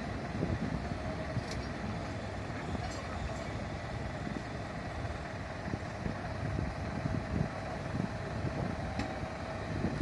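Heavy vehicle engine idling steadily, with a few faint clicks.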